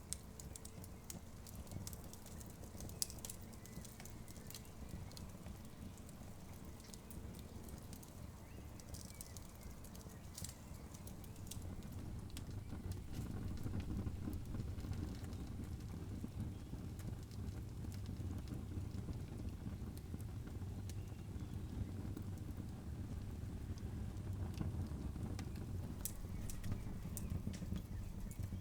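Campfire burning, with scattered crackles and sharp pops over a low rumble that grows louder about halfway through.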